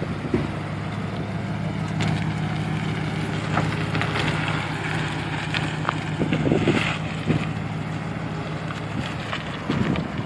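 1977 Lincoln Continental Town Car's V8 engine running steadily, with scattered clicks and knocks over it, being listened to for bad noises from the transmission.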